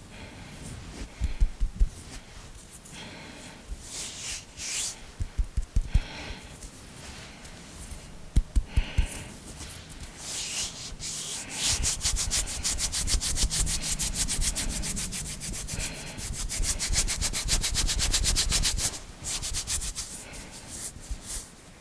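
Hands and fingers rubbing and tapping close to the microphone: scattered sharp taps and brushing strokes, then about halfway a fast, even run of hands rubbed briskly together for about seven seconds, then a few more strokes.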